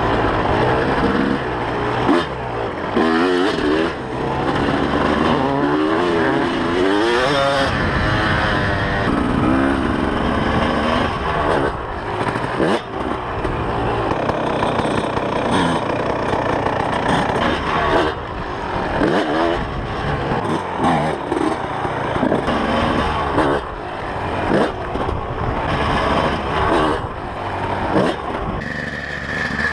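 2003 Kawasaki KX250's single-cylinder two-stroke engine being ridden hard, its pitch rising and falling over and over as the throttle is opened and shut.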